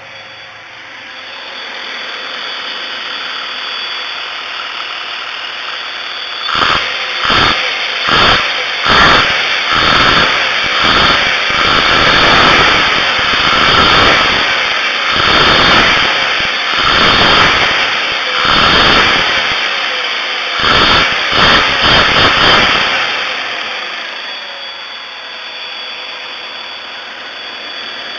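1994 Chevy Astro's 4.3-litre V6 engine idling, then revved over and over: a string of quick throttle blips about a second apart, several longer revs, and a few more quick blips, before dropping back to idle near the end.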